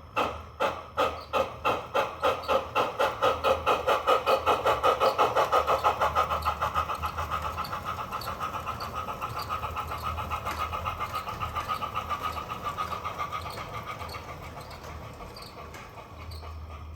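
Steam exhaust chuffs from the DCC sound decoder in a model USHobbies Dockside steam locomotive, played through its small speaker. The beats start slow, about one a second, and quicken steadily as the locomotive gets under way, until they run close together. They are loudest about five seconds in and then slowly grow quieter, over a faint low hum.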